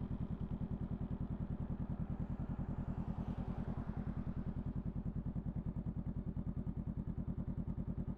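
Honda Rebel 500's parallel-twin engine idling, a steady even pulse of about ten beats a second that holds the same pitch throughout.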